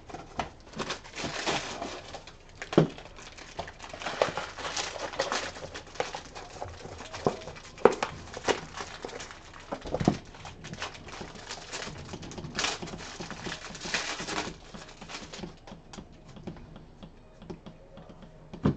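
Trading card hobby box being opened and its packs unwrapped: spells of crinkling wrapper rustle mixed with many small taps and clicks, with a few sharper knocks about three, eight and ten seconds in.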